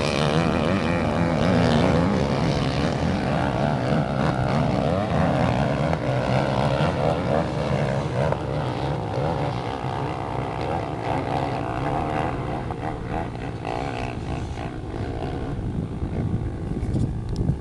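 Motocross bike engines running hard, their pitch rising and falling with the throttle.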